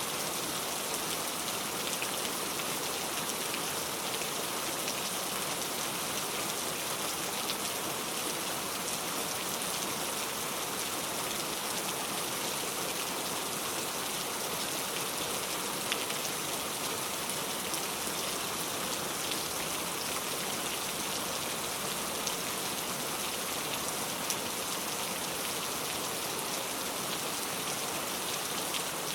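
Steady rain falling, an even hiss with scattered single drops ticking out of it now and then.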